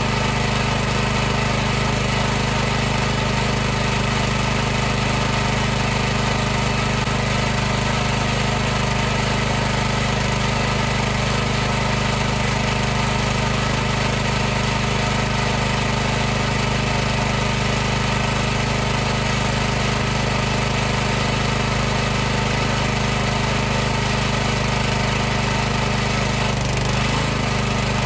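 High-pressure washer running steadily: an even mechanical drone with a hiss over it, the low tones wobbling briefly in pitch near the end.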